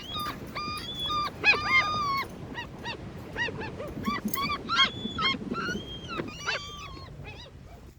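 Several gulls calling over one another: a rapid string of short, arched notes mixed with longer, level cries.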